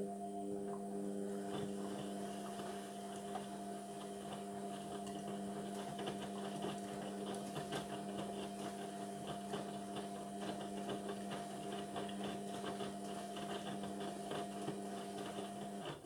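Indesit washing machine's motor turning the drum during the wash on a synthetics cycle: a steady hum with small knocks from the tumbling load, stopping suddenly near the end as the drum pauses before reversing.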